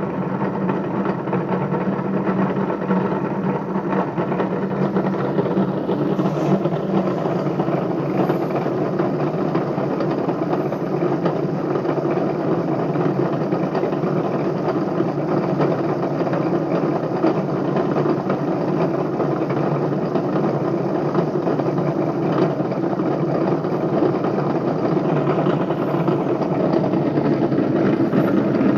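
Bedini pulse motor built on a BMX bicycle rim spinning steadily, with a continuous rough running noise from its bad bearings.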